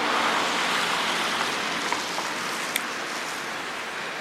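A steady rushing hiss that slowly fades, with two light clicks partway through.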